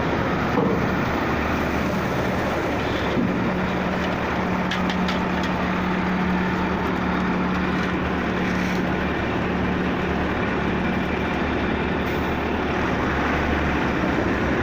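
Heavy vehicle or construction-machine engine running steadily, with a steady low hum from about three seconds in to about eleven.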